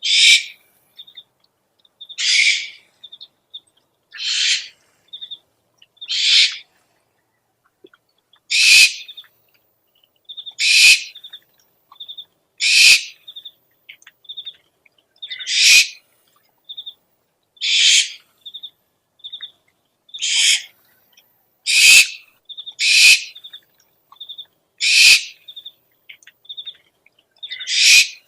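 Owl lure call: a repeating series of harsh, hissing owl screeches, one roughly every two seconds, with short high chirps between them.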